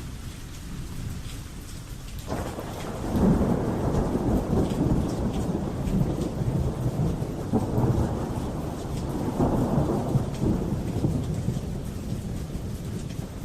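Thunderstorm: steady rain falling, with a roll of thunder that breaks in suddenly about two seconds in and rumbles on in several swells before fading near the end.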